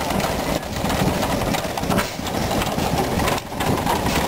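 Vintage stationary gas engines running steadily, a dense mechanical clatter with brief dips about every second and a half.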